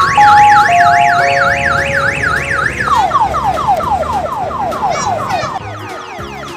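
Electronic siren on a mini tourist train sounding for departure: a fast up-and-down warble, switching about three seconds in to a quick run of falling yelps, with a few held tones stepping down in pitch underneath early on.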